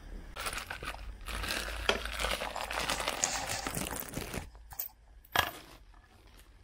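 Packaging being handled and pulled off, with rustling and crinkling for several seconds, then a single sharp knock about five seconds in.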